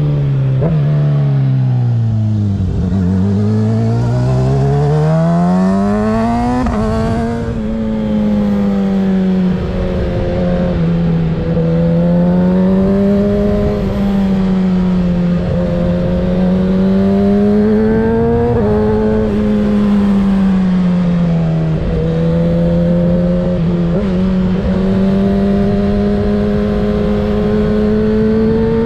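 2024 Kawasaki ZX-6R 636's inline-four engine through a Graves aftermarket exhaust. The revs sag, then climb steeply. The note drops sharply at about seven seconds, an upshift. After that it rises and falls under the throttle, over wind noise.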